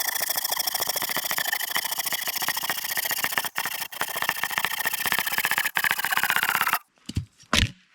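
A saw cutting through a dry, seasoned cedar log with a fast, steady rasp, stopping abruptly near the end. Then come two dull wooden knocks.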